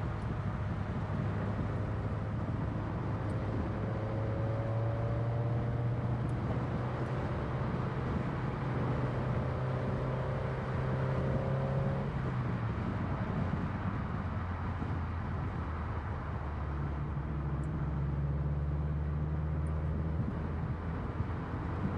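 2013 Scion FR-S's flat-four engine running under load through curves, with steady tyre and road noise. Its pitch climbs slowly, drops about halfway through, and climbs again later.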